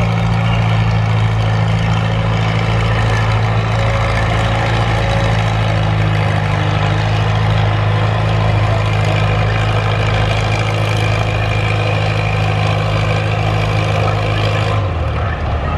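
Farmall M tractor's four-cylinder engine running loud at a steady pitch, the note dropping lower about a second before the end as it throttles down.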